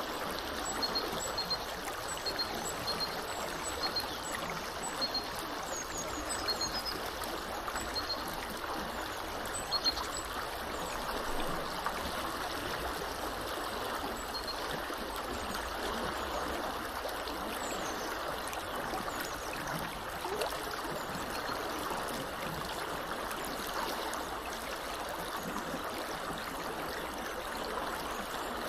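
Small river flowing steadily, an even rush of water. Over it a bird chirps in short high notes, repeated about every half second for roughly the first ten seconds, then only now and then.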